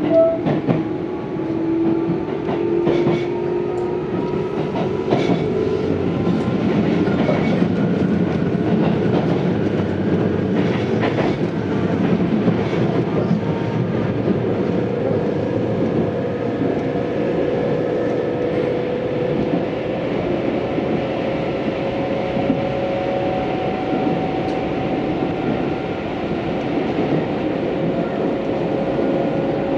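Tobu 634 series electric train running, its motor hum rising slowly and steadily in pitch as the train gathers speed, over steady wheel-on-rail noise. A few wheel clicks over rail joints come in the first dozen seconds.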